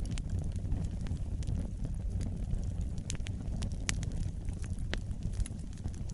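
Wood fire burning in a fireplace: a steady low rumble of flames with irregular sharp crackles and pops, a few a second, the loudest about three and four seconds in.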